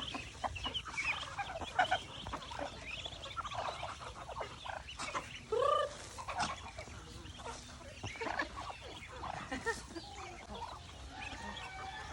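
A flock of chickens clucking, many short overlapping calls with a few longer rising-and-falling squawks.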